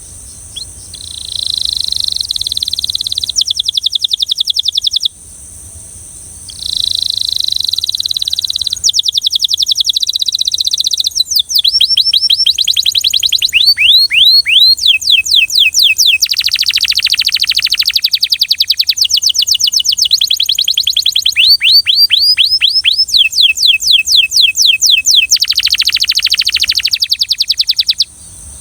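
Belgian canary singing a long song of fast trills and runs of repeated downward-sweeping whistled notes, at about three to four notes a second. It pauses briefly about five seconds in, and the song stops just before the end.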